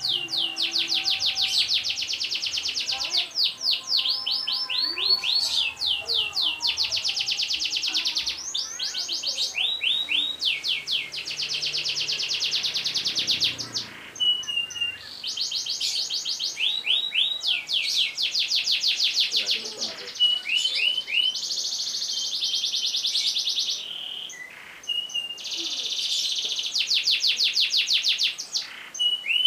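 Domestic canary singing long rolling trills: rapid runs of repeated high notes in phrases of one to two seconds, linked by short downward-swooping notes.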